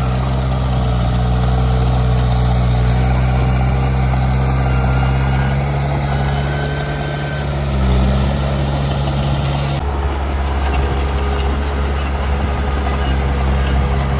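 Heavy diesel engine of earthmoving machinery running steadily, with a brief swell about eight seconds in. The engine sound changes suddenly about ten seconds in.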